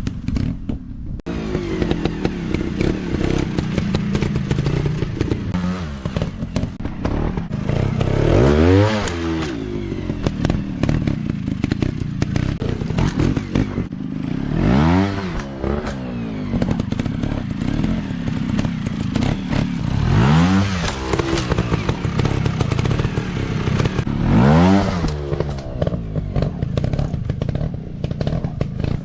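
Motocross dirt bike engine running hard, its pitch climbing and falling again and again as the throttle is opened and shut. Clattering and knocking sounds run through it.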